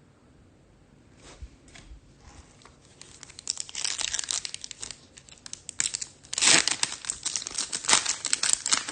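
Foil trading-card pack wrapper being torn open and crinkled: a few soft clicks at first, then dense crinkling from about three seconds in, loudest in two sharp tears, one past the middle and one near the end.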